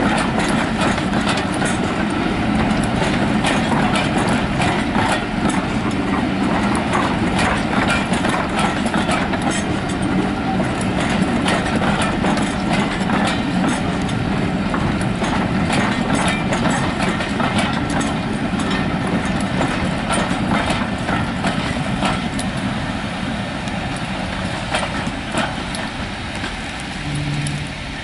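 A train of passenger coaches rolling past, its wheels clicking over rail joints, over the steady drone of a Class 50 diesel locomotive's engine hauling it away. The sound eases a little near the end as the last coach clears.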